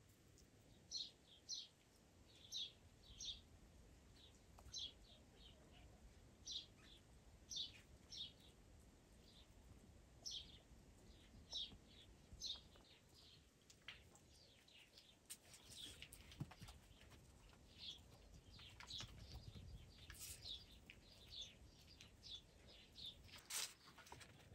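Faint chirping of small birds: short high chirps repeated irregularly, often in pairs, with a few sharp faint clicks in the second half.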